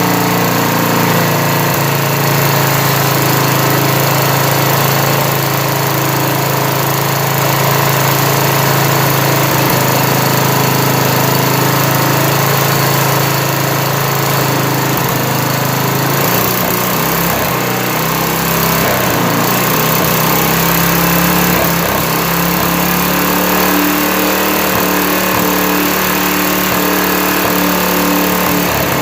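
1977 MTD-built 8-34 lawn tractor's small single-cylinder engine running steadily, its note shifting about halfway through.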